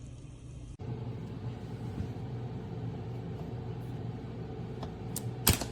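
Steady low rumble and hum from a stovetop moka pot heating on the stove as it nears brewing, with a sharp knock near the end.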